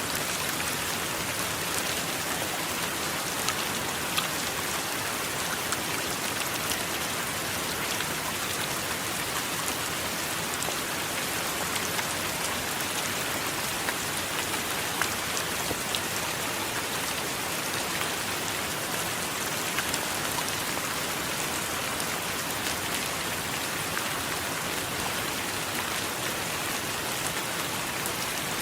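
Steady rain, an even hiss with scattered sharper ticks of single drops striking a surface.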